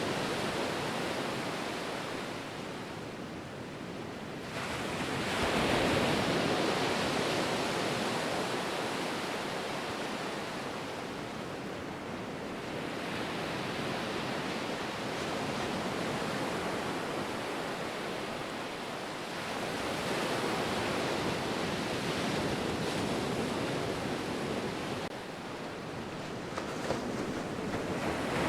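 Ocean surf: waves breaking and washing in a continuous rush that swells and ebbs, a fresh surge about every six to eight seconds.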